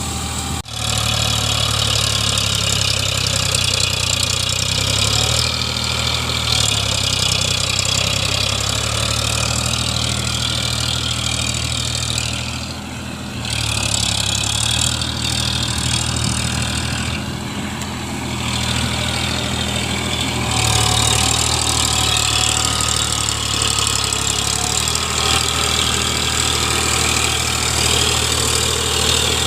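Eicher 551 tractor's diesel engine running steadily at idle, with a brief dropout about half a second in.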